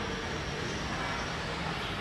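Steady engine noise with a broad rushing sound, as from a motor vehicle or boat under way.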